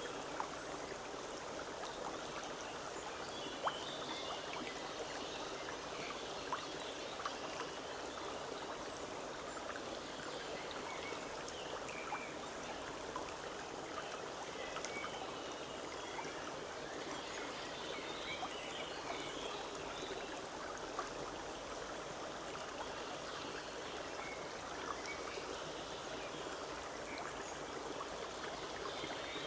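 A small forest stream running steadily in a continuous babble of water, with a few brief sharper splashes.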